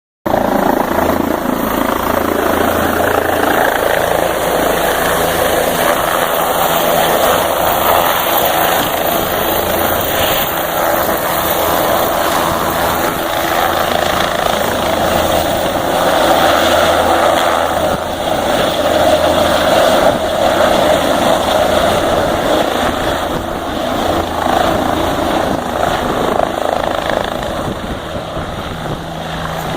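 Helicopter running steadily, a continuous loud drone with a low hum, as used in wildfire fighting.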